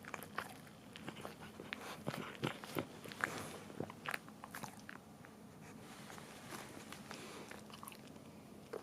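A Cavalier King Charles Spaniel licking at a plastic bag: quick, irregular wet licks and mouth smacks, busier in the first half and sparser later.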